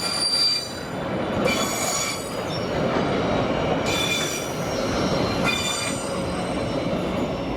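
Freight train rolling past, its wheels squealing against the rails in repeated high-pitched bursts of about a second each over the steady rumble of the wagons.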